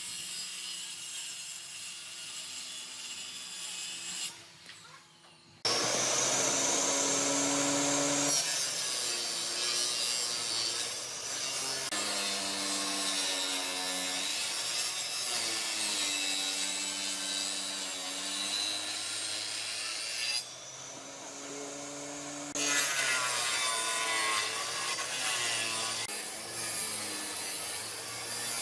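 Wood being cut by a power tool, its motor pitch dipping and recovering as it works through the wood, with two short breaks, about five seconds in and again about twenty-one seconds in.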